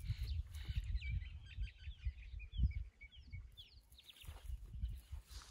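Small birds chirping outdoors: many short, quick, down-slurred tweets, over a low, uneven rumble.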